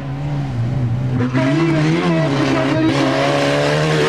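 Off-road race car's engine running hard on the course, its pitch rising and falling as the driver works the throttle.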